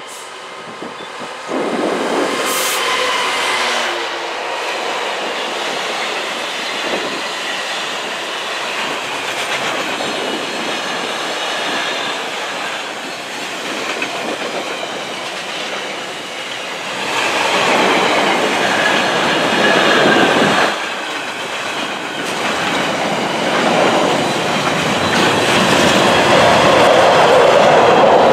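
Container freight train passing close: the locomotive goes by about a second and a half in, then a long rake of loaded container wagons rolls past with wheels clattering on the rails, getting louder again near the end.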